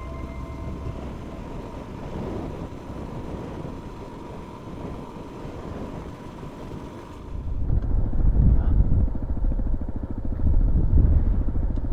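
Motorcycle riding on the road: engine running with wind rushing over the microphone. It is fairly quiet at first and becomes suddenly much louder and closer about seven seconds in.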